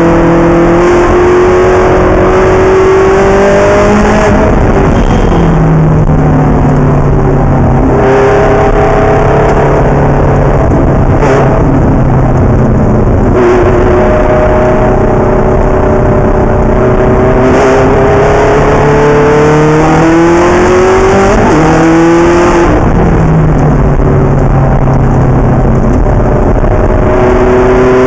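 Ferrari race car engine running hard and loud, its pitch rising and falling several times as it revs up and shifts.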